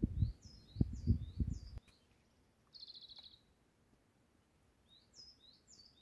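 Small songbirds chirping: a run of short, high, sliding chirps, a brief buzzy trill about three seconds in, then more chirps near the end. A few low rumbling thumps in the first two seconds are the loudest sound.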